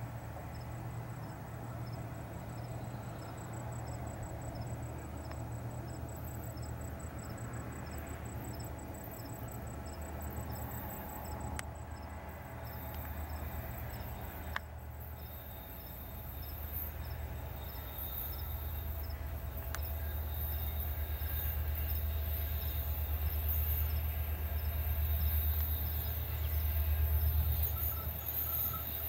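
Diesel freight locomotive's low engine rumble from a distance, growing louder as the train approaches. Insects chirp with a faint, regular high ticking.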